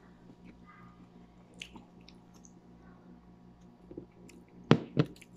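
Close-up chewing with the mouth closed: soft wet mouth sounds and small clicks. Near the end come two sharp knocks about a quarter second apart, much louder than the chewing.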